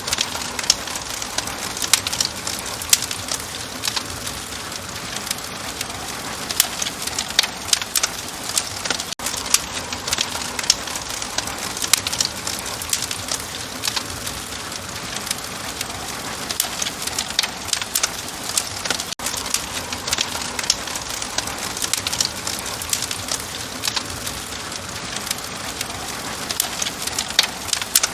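Wood fire crackling in a hearth: a constant hiss with frequent sharp pops and snaps, and two very brief dips in level about ten seconds apart.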